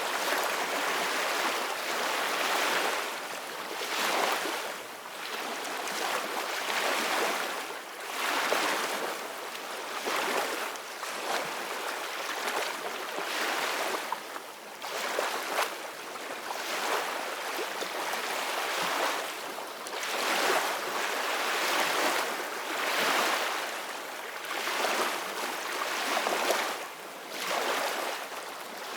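Ocean waves breaking and washing up a beach: a continuous surf hiss that swells and eases about every two seconds.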